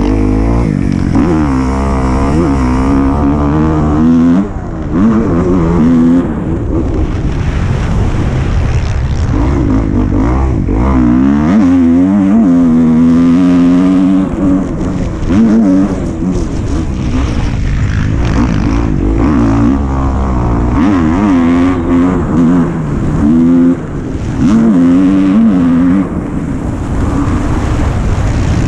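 Dirt bike engine being ridden, revving up and down over and over as the throttle is opened and closed through the gears, with a few short drops in loudness when the throttle is shut.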